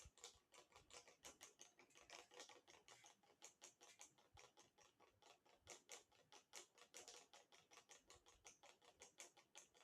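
Ceiling fan making a faint, rapid clicking noise, about five or six clicks a second, running on without a break.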